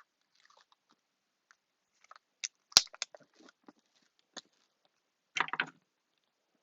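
Tape and craft pieces being handled: scattered small crinkles and clicks, one sharp click about three seconds in, and a short burst of crackling rustle about five seconds in.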